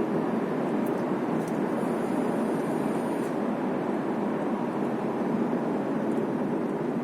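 Car driving at steady speed: an even rush of road and tyre noise heard from inside the cabin.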